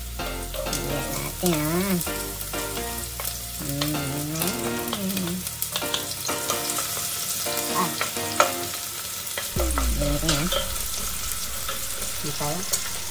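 Garlic and onions sautéing in hot cooking oil in a pan, sizzling steadily while being stirred, with short clicks and scrapes of the utensil against the pan.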